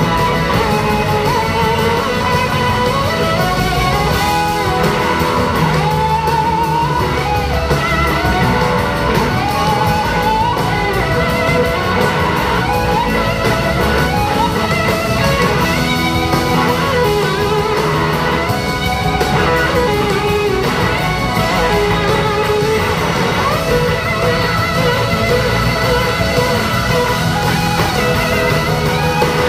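Live band playing an instrumental passage: a lead electric guitar plays a solo of gliding, bending notes over bass, drums and keyboards.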